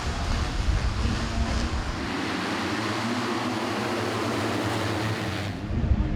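Motocross bike engines running on the track, a steady roar, changing to a louder, duller rumble about five and a half seconds in.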